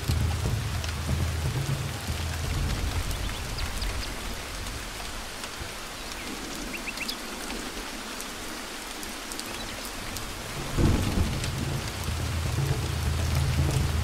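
Heavy rain falling steadily on leaves, with a low rumble of thunder. The rumble dies down partway through, then returns with a sudden louder crack of thunder about eleven seconds in and keeps rolling.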